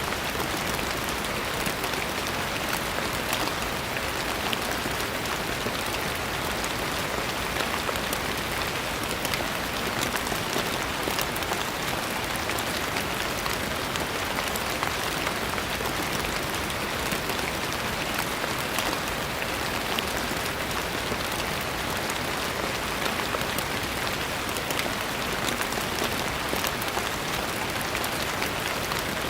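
Steady rain falling, an even hiss of many fine drop ticks with no change in strength.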